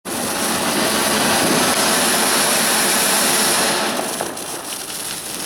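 A firework's burning charge gives a loud, steady hissing rush that starts abruptly, then eases slightly after about four seconds with scattered crackles.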